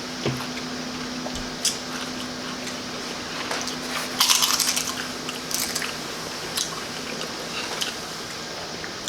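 A person chewing loaded tortilla-chip nachos close to the microphone: wet, squishy chewing of the meat and sour-cream toppings with scattered crunches of the chips. The loudest burst of crunching comes about four seconds in, and a shorter one follows soon after.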